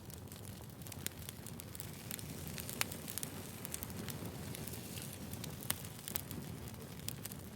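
Wood fire burning: a steady sound of flames with frequent sharp pops and crackles from the burning logs, a few louder pops standing out.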